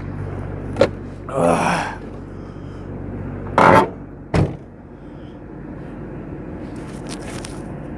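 1998 Jeep Grand Cherokee ZJ engine idling steadily on a remote cold start in deep frost while the driver's door is worked: a click, a scrape, a loud creak, then a solid door thunk about four and a half seconds in. After the thunk the idle is heard muffled from inside the cabin.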